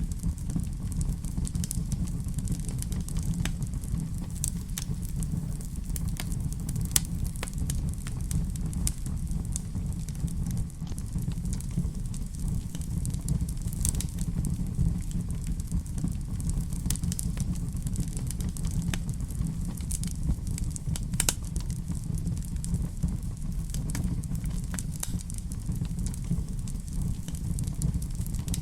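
Wood fire burning in a fireplace: a steady low rumble of the flames with irregular sharp crackles and pops several times a second.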